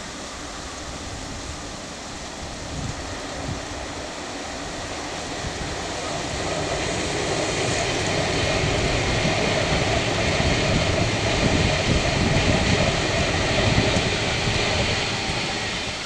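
Electric passenger trainset passing close by, its steady wheel-on-rail rumble and rushing noise growing louder from about six seconds in and dropping off at the very end.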